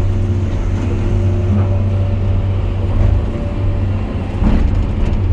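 Excavator's diesel engine running steadily under working load: a low, even drone with faint held humming tones above it.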